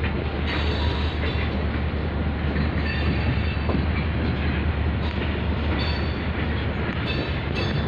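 Freight train of tank cars rolling past close by: a steady heavy rumble of wheels on rail, with occasional brief higher metallic sounds.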